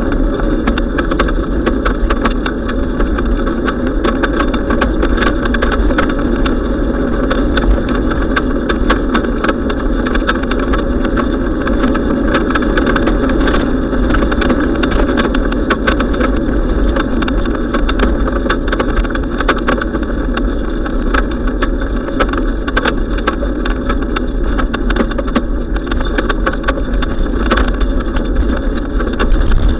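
Steady wind and rolling noise recorded from a moving bicycle, dense with small clicks and rattles.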